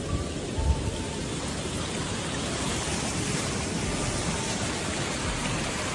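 Steady hiss of heavy rain and rushing floodwater, with a few faint low thumps about half a second in.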